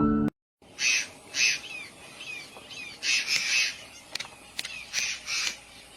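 Small pet parrots kept as love birds calling: bursts of sharp squawks and chirps mixed with short falling whistle notes, repeating every second or so, with a few sharp clicks. A moment of piano music cuts off just before the calls begin.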